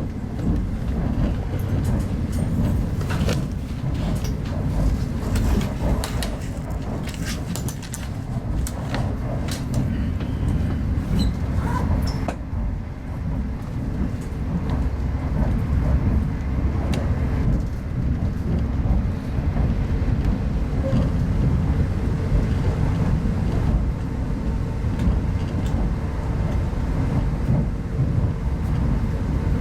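Passenger coach of an intercity train running along the line, heard from inside the cabin: a steady low rumble of wheels on track, with scattered clicks and rattles over roughly the first twelve seconds.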